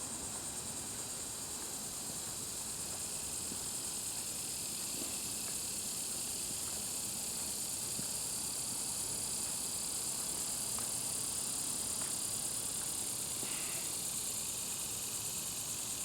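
Steady, high-pitched insect chorus: a continuous shrill drone with a fine rapid pulse, swelling slightly in the middle.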